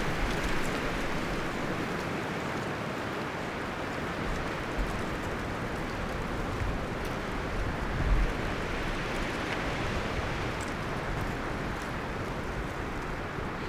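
Wind moving through forest leaves and branches, a steady rustling hiss, with a brief low gust buffeting about eight seconds in.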